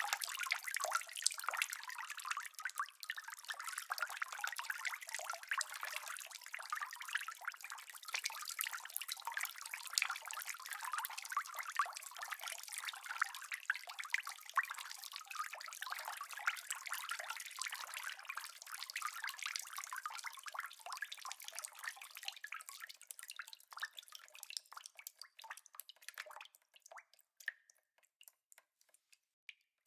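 Rain falling as a dense patter of small drips, with nothing in the low end. About three-quarters of the way through it thins to scattered single drops and nearly dies away.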